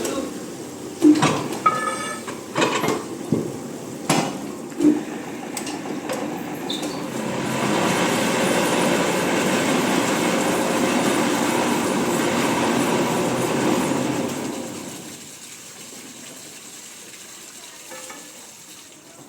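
A few sharp metallic clanks and knocks, then a drilling machine running steadily for about seven seconds before dying down to a low hum.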